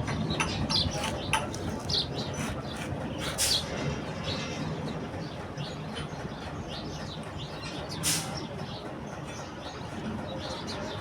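Birds chirping in short scattered calls over a steady background, with two brief hissing bursts about three and a half and eight seconds in.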